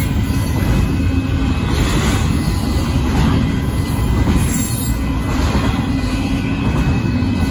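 Union Pacific intermodal freight train rolling past at a grade crossing: a steady, loud rumble and rattle of the cars' wheels on the rails, with faint thin high tones running through it.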